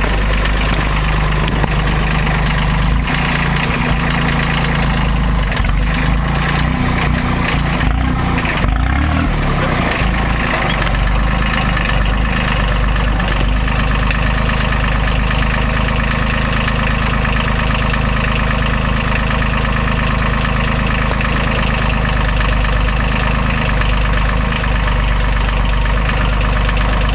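Timberjack forwarder's diesel engine running at a steady idle, with a spell of irregular clunks and an unsteady engine note in the first third.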